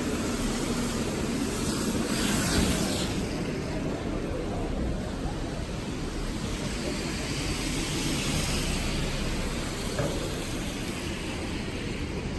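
Steady hiss of rain and traffic on a wet city street, with vehicles swishing past about two seconds in and again around eight seconds.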